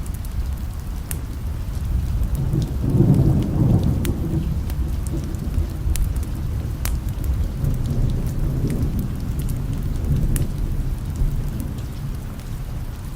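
Thunderstorm: a long, low rumble of thunder swells about three seconds in and slowly fades over steady rain, with scattered sharp crackles.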